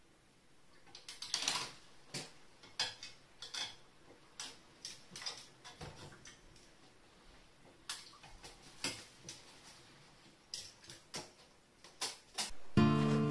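Irregular light clicks and taps, a few a second with gaps between. Near the end an acoustic guitar strum comes in.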